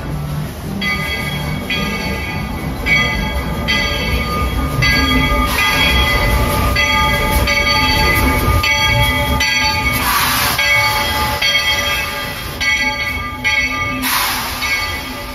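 Steam locomotive's bell ringing a little more than once a second over the train's low rumble, with two bursts of steam hiss later on.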